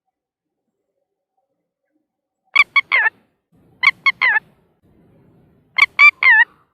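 Red-wattled lapwing calling: three loud, shrill phrases of three quick notes each, the last note of each phrase longer and falling in pitch. The first phrase comes after a silence of about two and a half seconds, and the phrases follow a second or two apart.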